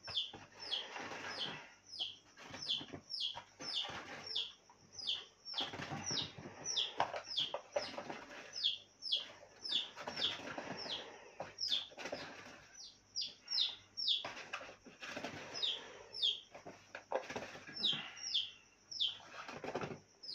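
A small bird chirping over and over, about two short, high, downward-sliding chirps a second.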